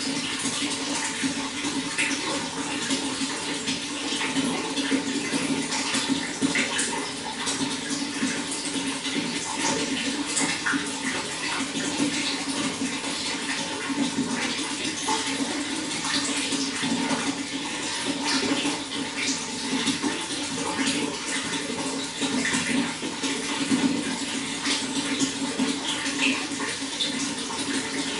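Running water splashing and gurgling steadily, with many small splashes.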